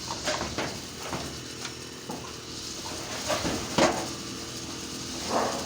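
A handful of short knocks and clinks, the loudest a little under four seconds in, over a faint steady hum.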